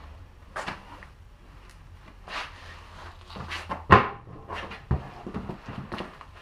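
A run of irregular knocks, clunks and short scrapes, the loudest a sharp knock about four seconds in, over a faint steady low hum.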